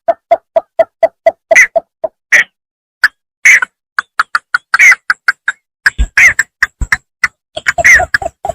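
Paddy-field bittern calling: a rapid series of short, low notes, about four a second, broken up in the middle by louder, higher, harsher calls. The low notes return near the end.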